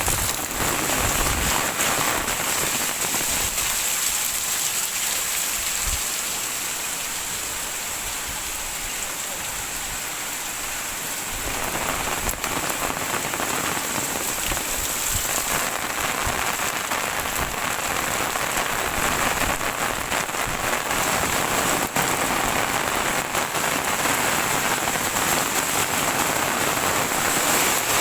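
Heavy rain falling steadily and splashing on surfaces. It lightens for a few seconds about a third of the way through, then picks up again.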